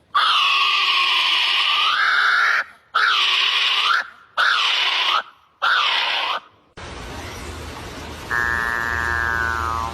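Animal calls: four loud calls that swoop down and back up in pitch, the first long and the other three shorter, about a second apart. Then comes a quieter steady hum with a held tone.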